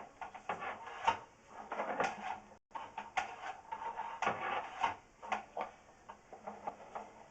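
Irregular scraping, rubbing and clicking of a sewer inspection camera's push cable being worked along a pipe, in uneven strokes.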